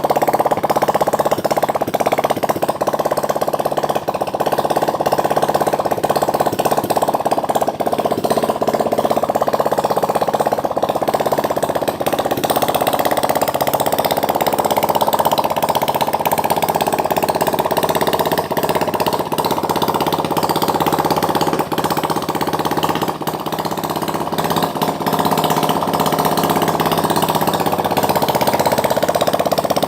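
A 175cc water-cooled engine running steadily at idle.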